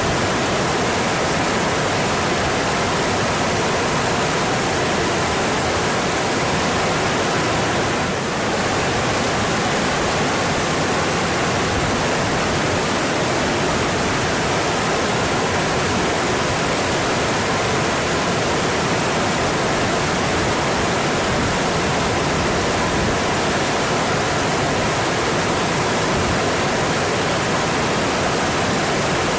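Mountain stream flowing, a steady full wash of water noise, with a brief slight dip in level about eight seconds in.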